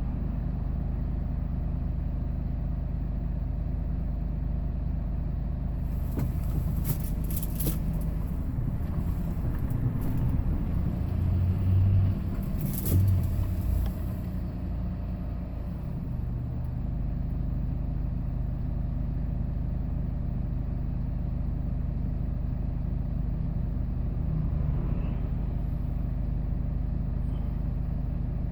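Hyundai Porter II light truck on the move, a steady low engine and road rumble. Between about 6 and 14 seconds the rumble grows louder and rougher, with a few sharp knocks or rattles.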